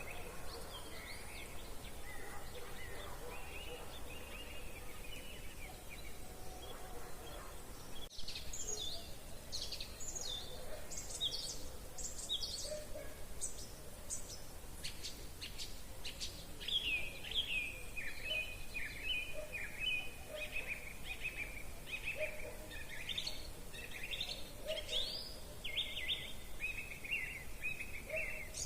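Wild songbirds singing and chirping. About eight seconds in the calls become busier and higher, and in the second half there is a long run of quick chirps.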